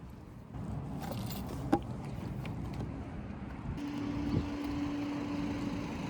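Road vehicle noise, a steady rumble that rises about half a second in, with a sharp click a little later and a steady low hum over the last two seconds.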